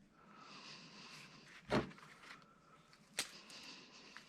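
Two short knocks from copper wire being handled and cut, over a faint, steady high whine.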